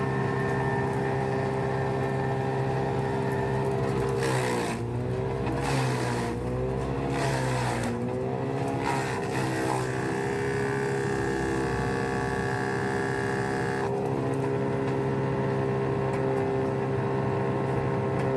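Bandit Intimidator wood chipper running, its engine note steady except for several sags and recoveries in pitch from about 4 to 10 seconds in, when material is being fed in and chipped, with short bursts of noise.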